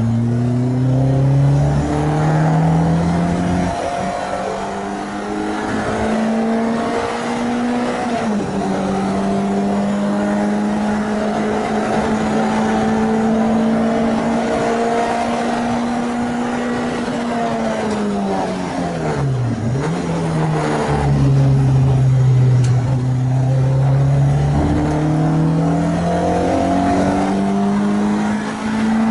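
Renault Clio 2 RS MiniCup's freshly rebuilt 2.0-litre four-cylinder engine at full throttle on track. It climbs through the gears in steps and holds high revs for several seconds. Past the middle it drops away under braking and downshifts, then pulls up through the gears again.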